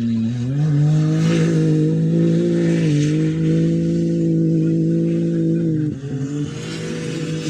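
A rally-raid competition vehicle's engine accelerating hard and held at high revs, with a sudden brief drop in revs about six seconds in, then pulling on.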